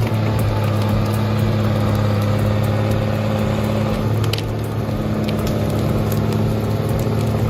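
A heavy diesel engine running steadily at a constant speed, with a few sharp clicks and knocks over it.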